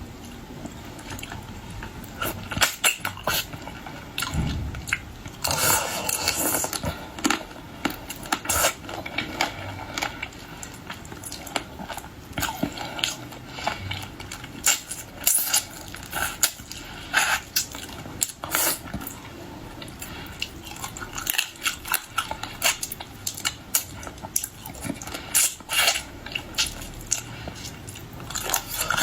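Close-up eating of shellfish: irregular sharp clicks and crunches of shell, chewing and sucking, with utensils tapping on a dish.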